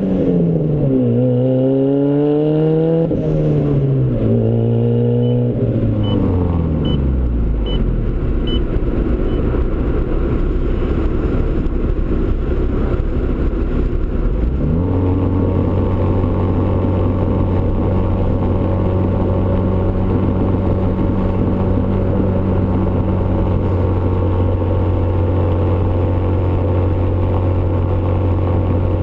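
Turbocharged Ford Escort ZX2's four-cylinder engine through a custom 3-inch side-exit exhaust, driven through the gears. In the first few seconds the pitch climbs and drops with each shift, then falls away to a low rumble. About halfway through it rises again and settles into a steady cruising drone.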